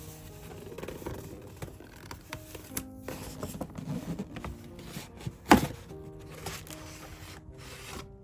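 Background music with scattered small clicks and rustles of a gift parcel being handled and unpacked, and one sharp knock about two-thirds of the way through.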